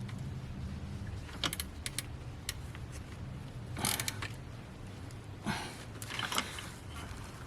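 Scattered metallic clicks and clinks of hand tools on the alternator's charging-wire terminal nut, with the sharpest click about four seconds in and a short clatter in the second half.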